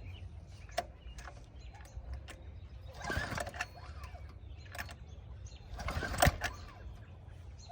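Minibike's small engine idling low and steadily, with clicks and rustling handling noises, louder about three seconds in and again near six seconds.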